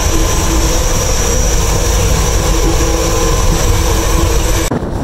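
Loud, steady mechanical running noise of a passenger train heard inside its washroom compartment, with a constant hum and a high whine; it cuts off suddenly near the end.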